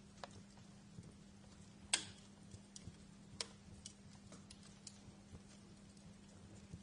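Wood fire in a fireplace crackling: faint, sparse, irregular pops and snaps, the loudest about two seconds in and another a little after three seconds, over a faint steady low hum.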